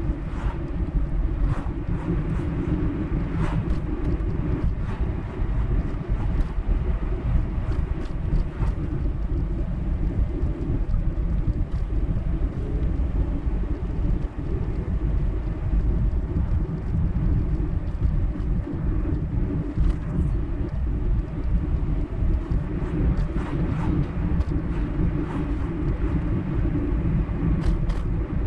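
Car driving along a highway: steady low road and engine rumble, with a few light clicks.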